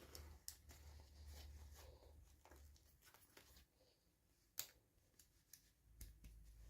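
Near silence with faint scattered clicks and light rustles of small toy packaging being handled, and one sharper click about four and a half seconds in.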